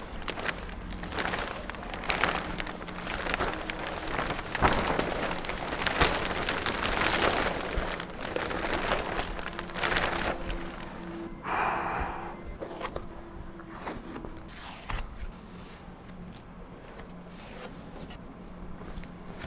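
Plastic shrink wrap being pulled and torn off a boat's hull in repeated irregular rustling bursts, which thin out after about two-thirds of the way through, over a steady low hum.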